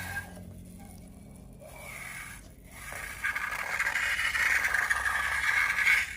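Scraping and rubbing as slime-making materials are worked by hand, louder and steadier from about three seconds in.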